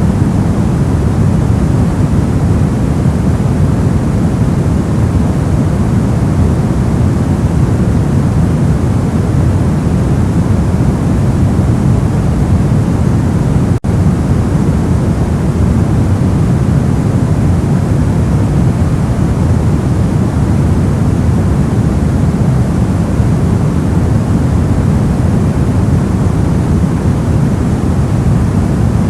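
Steady electronic white noise: an even, unchanging hiss, heaviest in the low end, with a split-second dropout about halfway through.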